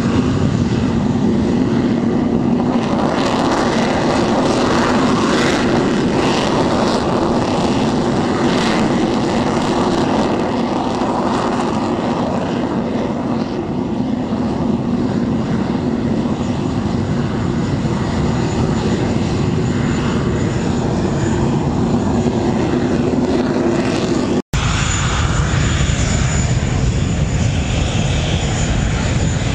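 English Electric Lightning's twin Rolls-Royce Avon jet engines running, a loud steady noise with a deep hum. It cuts out for an instant about 24 seconds in, then carries on with a thin high whine on top.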